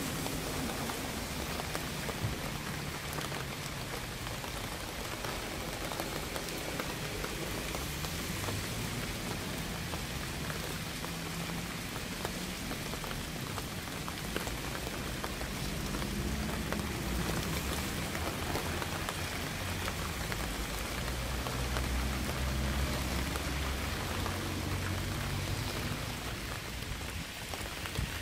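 Steady rain falling, with many fine drop ticks throughout. A low rumble swells under it past the middle and eases off near the end.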